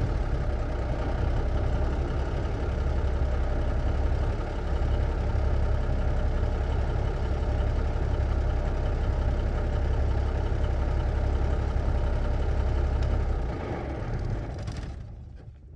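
1954 big rig truck's engine idling steadily, then shut off near the end, the rumble dying away to silence.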